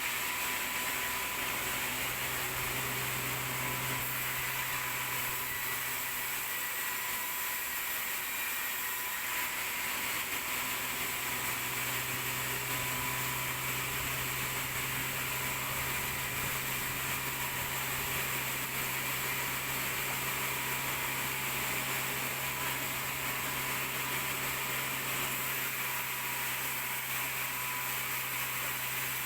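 Sawmill machinery running steadily: a constant low motor hum under an even hiss, with no distinct cutting strokes.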